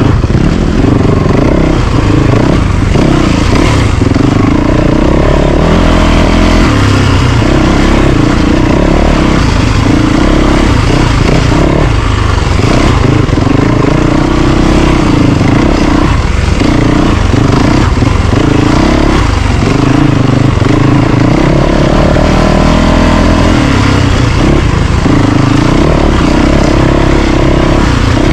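Yamaha YZ450FX dirt bike's single-cylinder four-stroke engine running under way on a trail ride, the throttle opening and closing so the engine note keeps rising and falling.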